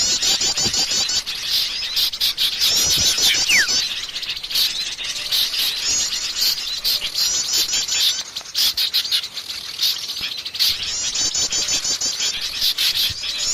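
A dense chorus of many small songbirds chattering and twittering, from a bird-lure (pikat) recording. Rapid trill phrases recur every few seconds over the chatter, and a single falling whistle sounds about three seconds in.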